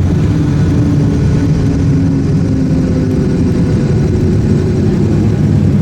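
Twin turbocharged Continental TSIO-520 piston engines and propellers of a Cessna 340A running steadily, a loud, even drone whose pitch drifts slightly.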